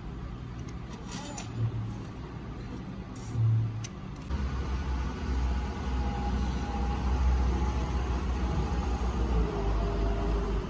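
An engine running with a deep, steady rumble that starts about four seconds in, after a few short low thumps and clicks.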